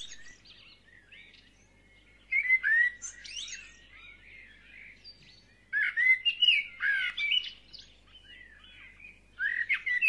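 Small songbird singing: quick chirps and warbled phrases in three loud bursts, with quieter chirping between them.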